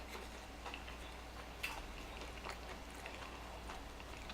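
Faint scattered clicks and light handling noises from food being handled and zesty sauce being put on a crispy chicken sandwich, over a low steady hum.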